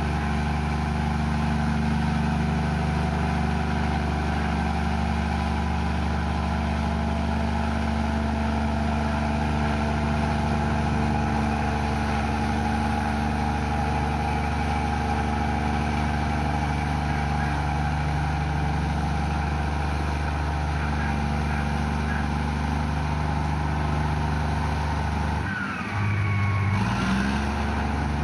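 Komatsu bulldozer's diesel engine running steadily under load. Near the end the engine note dips and shifts, with a brief high squeal.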